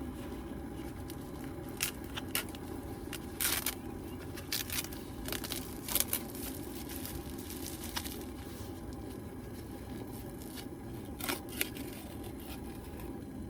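Packaging being handled and torn open: scattered crinkles, rips and small clicks, bunched in the first half and again briefly later, over a steady low background hum.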